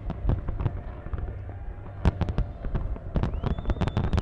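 A large fireworks display: shells bursting in rapid bangs and crackles over a steady low rumble, thinning for a moment about half a second in and growing dense again from about two seconds. Near the end a single whistle rises and then holds its pitch.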